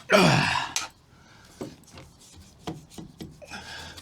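Rubbing and scraping of hand work on sound-deadening mat: one loud, rasping rub lasting about a second at the start, then scattered light ticks and a short rub near the end.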